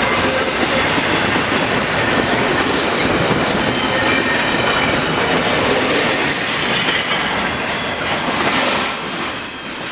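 Tail end of a long intermodal freight train rolling past close by: steel wheels clattering over the rail with a faint, thin wheel squeal. The noise falls away near the end as the last car goes by.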